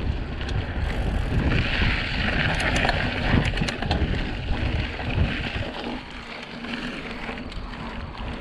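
Trek X-Caliber 8 mountain bike being ridden: tyre hiss over the ground and a few light clicks, with wind buffeting the microphone. The wind eases off after about six seconds.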